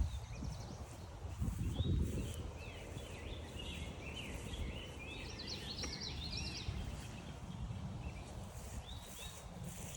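A songbird sings a long, jumbled run of quick warbling notes, starting a couple of seconds in and lasting about five seconds, with a short phrase again near the end, over a low rumbling noise.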